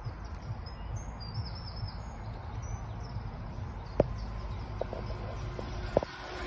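Birds singing in short, high chirps, most in the first couple of seconds, over a steady low rumble. Two sharp clicks stand out, one about four seconds in and one near the end.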